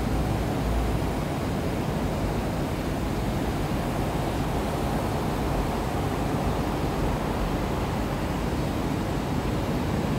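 Steady running noise heard inside an MTR East Rail Line R-Train electric train car as it slows into a station platform: a constant low rushing of wheels on rail and traction equipment, with no distinct tones or knocks.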